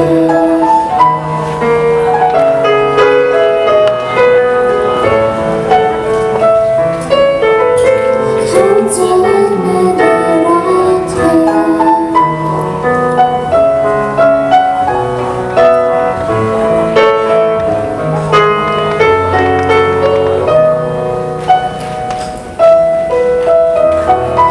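Live band playing an instrumental passage of a slow pop ballad, with piano chords carrying the melody and no lead vocal.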